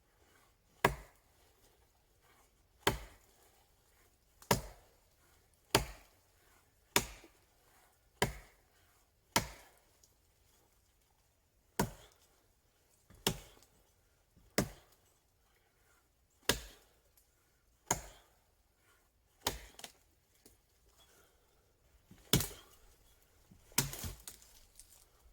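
Wood being chopped for the fire: about fifteen sharp blade strikes, one every second or two.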